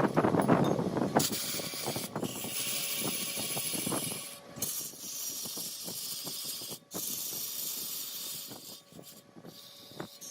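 Large wood lathe turning a block of wood, the tool cutting into it with a steady hissing scrape and many small knocks. The hiss breaks off briefly every two seconds or so.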